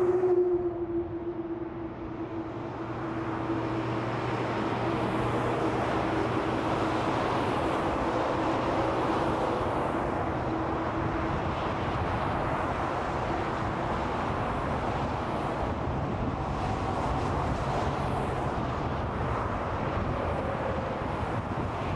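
Steady freeway traffic, the continuous rush of tyres and engines from passing vehicles. A humming tone that falls slightly in pitch fades out about halfway through.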